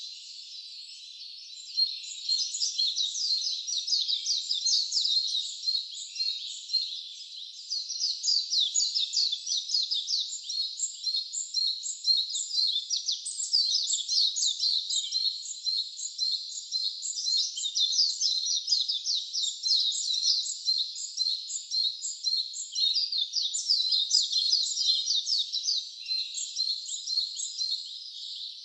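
Wild birds chirping in a dense, continuous chorus of quick, high, repeated notes, many overlapping every second, with no water sound under them.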